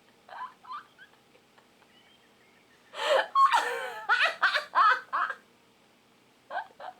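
A person's wordless vocal outbursts: two short ones near the start, then a louder run of wavering, breathy bursts from about three seconds in until past five, and a few more near the end.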